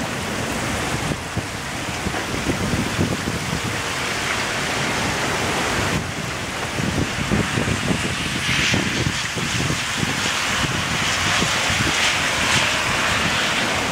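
Heavy rain pouring down on pavement and cars in a rainstorm, a dense steady rush with wind gusting across the microphone. The hiss of the downpour grows brighter and a little louder in the second half.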